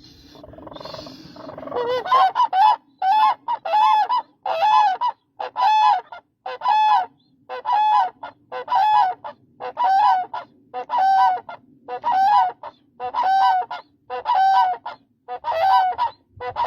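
Demoiselle crane calling: a long, regular series of short, loud calls, about one and a half a second, each with a small bend in pitch, starting about two seconds in after some fainter sounds.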